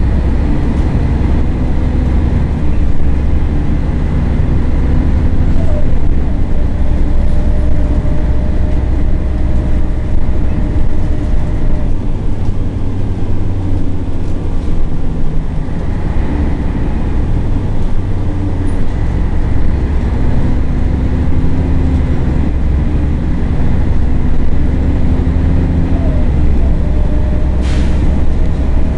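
Scania L113CRL city bus running under way, its diesel engine giving a heavy steady drone with a faint whine that climbs slowly as the bus gathers speed, twice over. A brief hiss near the end.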